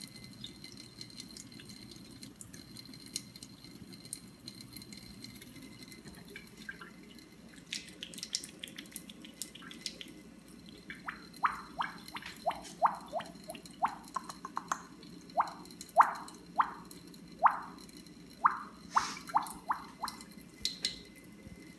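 Water from a faucet water filter running steadily into a sink, with a run of sharp water-drop plinks, about two a second, through the second half.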